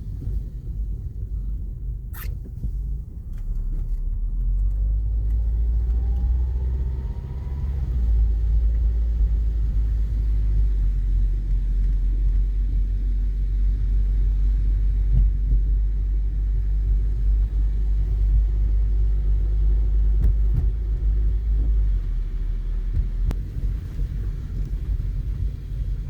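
Car driving on a snowy road, heard from inside the cabin: a steady low rumble, with the engine pitch rising as it speeds up about six seconds in. A single sharp click about two seconds in.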